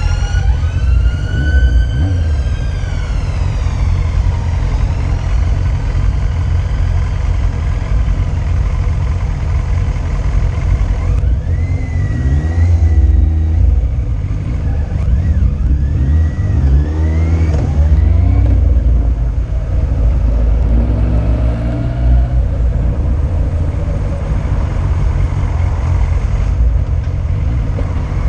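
Yamaha Fazer 600 motorcycle being ridden, its inline-four engine rising and falling in pitch as it revs and changes gear, under heavy wind rumble on the camera microphone. A siren falls away in the first few seconds.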